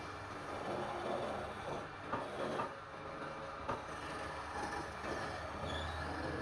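Wood lathe turning palm wood, with a steady low hum and a rough grinding noise from the tool on the wood. A few sharp clicks come around the middle.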